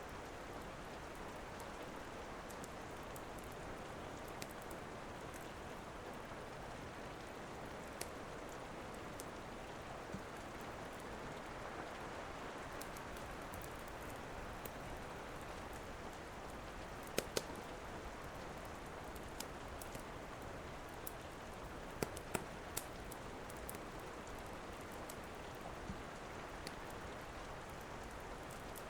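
Steady rain with occasional sharp pops and crackles from a wood fire in a fireplace, a few louder ones clustered about halfway through and again a few seconds later.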